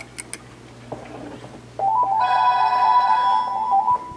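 Phone ringing with an incoming call: a rapid two-note trill that starts about two seconds in, after a few light clicks.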